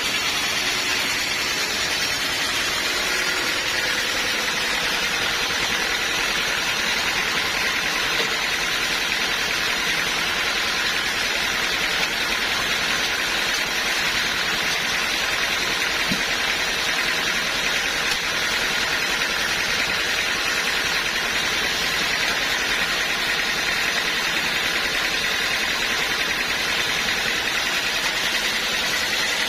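Sawmill machinery running steadily without a break.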